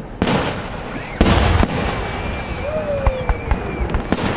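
Aerial fireworks going off: two heavy booms about a second apart, the second the loudest. A thin high whistle and a scatter of sharp crackling pops follow.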